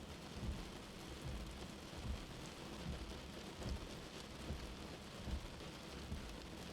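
Steady rain heard from indoors, with a soft, low heartbeat thump repeating a little more often than once a second.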